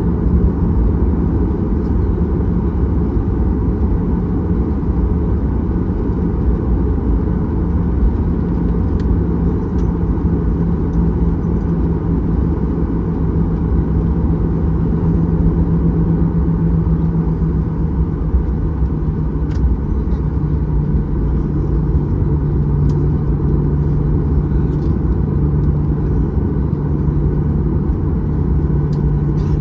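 Cabin noise in a Boeing 737-800 taxiing on its CFM56-7B turbofans: a steady low rumble with a droning hum that drops slightly in pitch about two-thirds of the way through.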